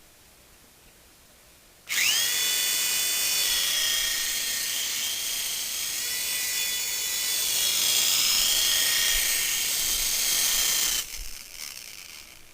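Mini RC toy helicopter's small electric motor and rotors spinning up with a sudden high-pitched whine about two seconds in, its pitch rising briefly and then holding steady with a slight waver. The whine cuts off about eleven seconds in, followed by a few faint rattles.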